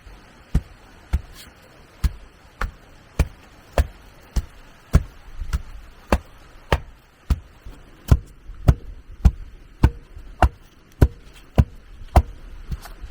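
A hand tool striking over and over in a steady rhythm, about one blow every 0.6 seconds, some twenty blows in all.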